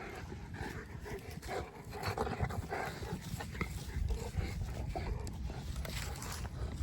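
Boerboel dog panting over a steady low rumble.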